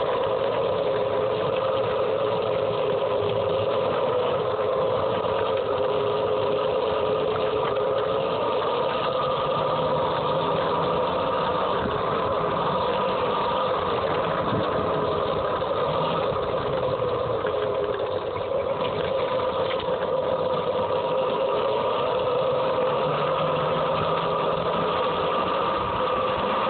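Home-built DC-powered electric dirt bike under way, its motor and drive giving a steady whine in two pitches that drift slightly with speed, over a continuous rushing noise.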